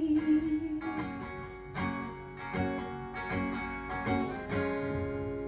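Acoustic guitar strumming slow chords in the closing bars of a song, each chord ringing on. A held sung note trails off right at the start.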